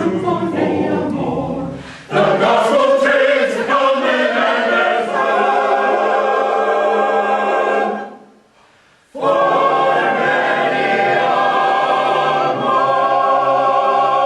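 Choir singing a cappella, the closing bars of a gospel spiritual: a long loud held chord, a break of about a second, then another long held chord.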